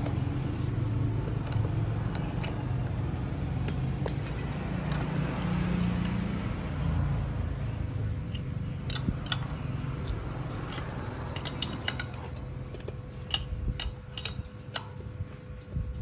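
An engine running with a low rumble that swells briefly midway, then fades under a series of sharp metallic clinks and taps, like tools and parts being handled.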